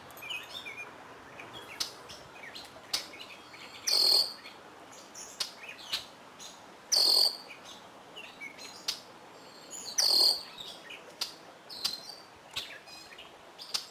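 A songbird sings a short loud phrase about every three seconds, three times in all. Fainter chirps from other birds and a few small sharp clicks come in between.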